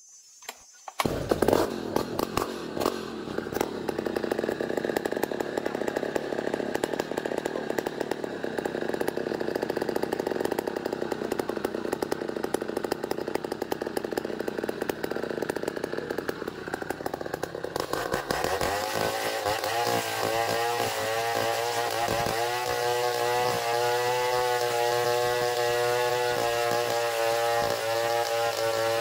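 A chainsaw starts about a second in and runs loudly. Around two-thirds of the way through it goes up to high revs, its pitch wavering up and down as it saws through ulin ironwood.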